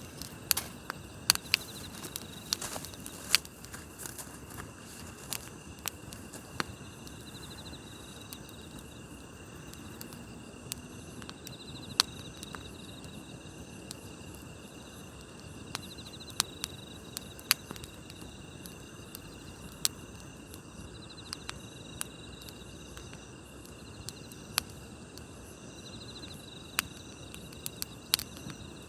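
Campfire crackling, with sharp pops at irregular moments over a low hiss, against a steady chorus of night-singing grass insects trilling, and one insect giving a short chirp every few seconds.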